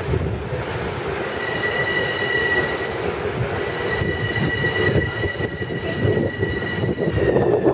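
Bombardier M7 electric multiple unit pulling into the platform, rumbling on the rails with a steady high squeal that starts about a second in and dips slightly in pitch near the end as it slows.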